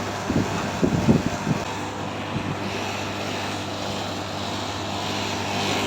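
Air-conditioner unit running after its relay was replaced with a magnetic contactor: a steady hum with fan rush. A few low bumps come in the first second or so.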